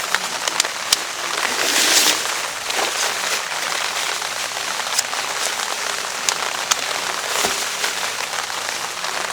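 Heavy rain falling on a DD tarp: a steady hiss of rain with many sharp, irregular drop hits. The rain swells louder about two seconds in.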